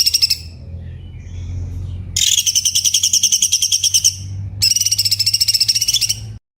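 Cucak cungkok song: fast, rattling runs of rapidly repeated high notes. A short run ends at the start, then come two longer runs with a brief gap between them. The song cuts off abruptly into silence near the end, a built-in pause of the tutor recording.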